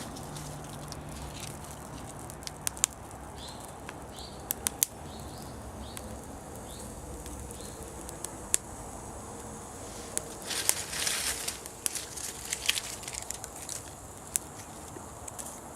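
Bonfire of dry fallen leaves burning, with scattered sharp pops and crackles over a low steady rush, and a dense flurry of crackling about ten seconds in.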